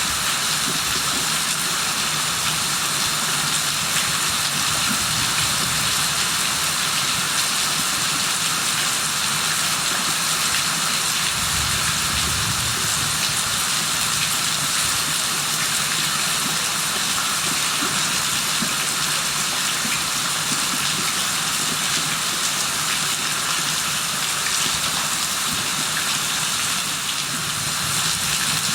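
Steady rain falling on surfaces, an even unbroken hiss with no let-up.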